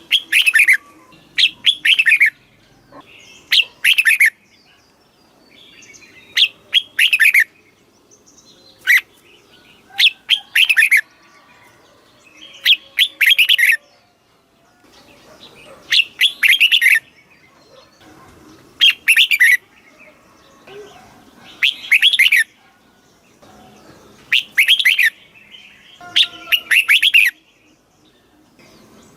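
Red-whiskered bulbul singing: short, loud, warbling phrases repeated every two to three seconds, about a dozen in all.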